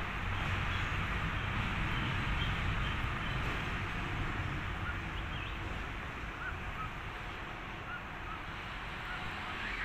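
Steady outdoor hiss over a low rumble, with a small bird chirping short rising notes about twice a second from about halfway in.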